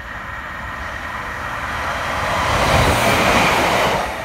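Diesel multiple-unit passenger train approaching and passing beneath, its engine and wheels on the rails growing louder to a peak about three seconds in, then beginning to fade.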